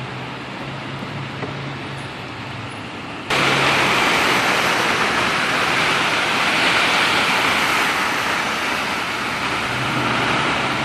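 A steady rush of water noise in a flooded street, like heavy rain and running water, with a faint low hum underneath. About three seconds in it suddenly jumps much louder and stays there.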